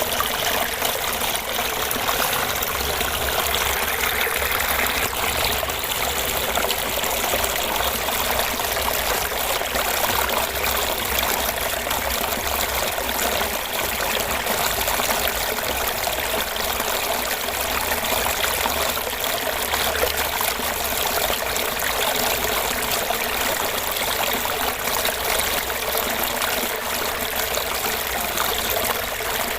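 Small fish pond waterfall: water falling and trickling into the pond with a steady gurgle.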